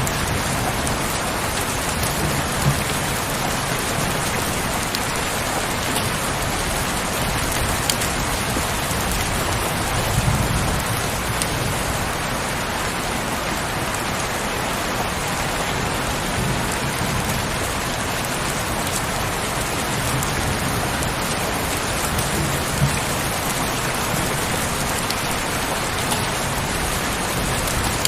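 Heavy rain falling steadily as an even hiss, with a few brief low thuds, the strongest about ten seconds in.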